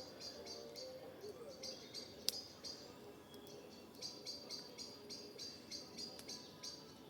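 A bird's repeated high chirps, about three a second in runs with short breaks, over the faint crackle of a wood fire, with one sharp pop a little over two seconds in.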